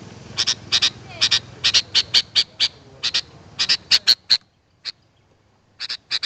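Sooty-headed bulbul (kutilang) calling: quick runs of short, sharp chirping notes, often in pairs. After about four seconds they thin to a few scattered notes, played as a lure to call in wild birds.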